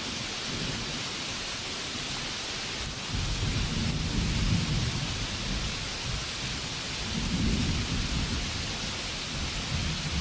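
Steady rainfall hiss, joined about three seconds in by low rolling thunder that swells twice.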